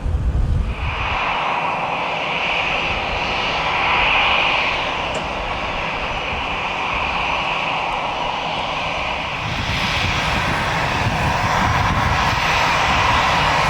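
Passenger airliner's engines running close by: a steady high whine comes in under a second in, and a deeper rumble joins and grows louder from about ten seconds in.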